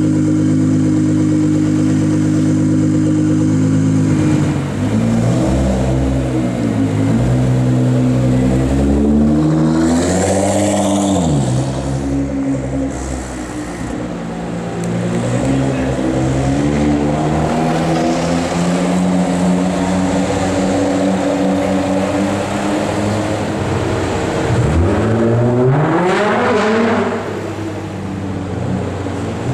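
Straight-piped Nissan GT-R R35 with a twin-turbo V6 tuned to 700 bhp: the loud exhaust holds a steady note, then revs up and down several times. The biggest climb in pitch comes near the end, then the note drops off.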